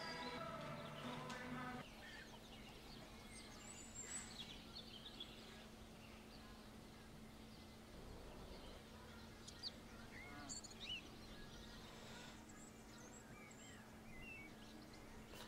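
Background music stops about two seconds in, leaving a quiet room with a faint steady hum and a few faint, scattered bird chirps.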